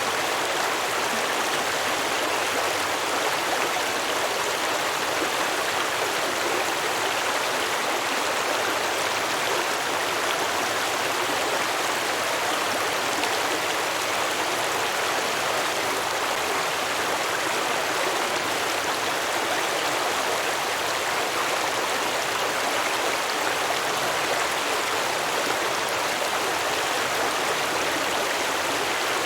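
Small stream flowing and babbling over rocks, a steady, even rush of water.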